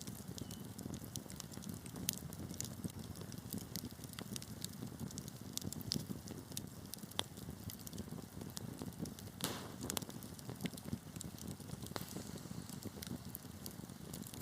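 Wood fire burning with a steady low rumble and irregular sharp crackles and pops, one longer crackle about two-thirds of the way through.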